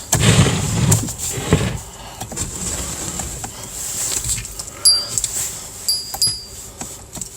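Rustling and clicking of someone moving about and handling controls inside a car's cabin, loudest in the first second or so. Two short, very high electronic beeps sound about five and six seconds in.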